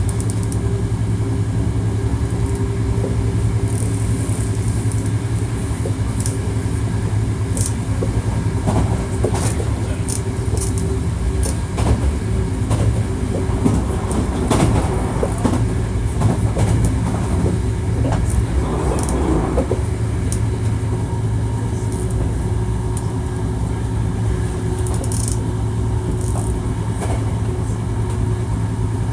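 Hankyu 1300 series electric train running at speed, heard from inside the car. A steady low hum carries a few steady motor and gear tones, with scattered clicks of the wheels over rail joints. A rougher, clattering stretch comes about halfway through.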